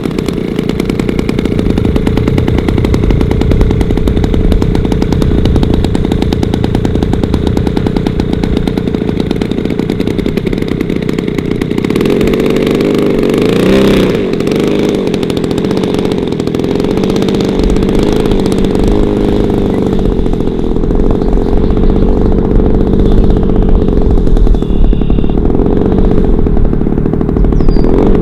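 Zenoah G-62 single-cylinder two-stroke gasoline engine of a large radio-controlled model plane running, its pitch wavering up and down around the middle and again near the end.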